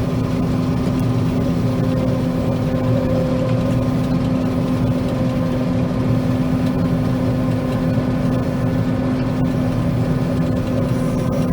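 John Deere 9500 combine running steadily while harvesting soybeans, heard inside the cab: an even machine drone with a steady hum at one pitch.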